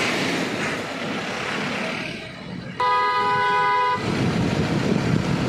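Road noise of a moving vehicle, then a vehicle horn sounding one steady blast of about a second roughly halfway through.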